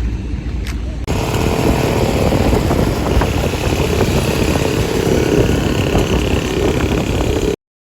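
Vehicle engine running with road noise, switching abruptly to a louder, denser run about a second in, then cutting off suddenly near the end.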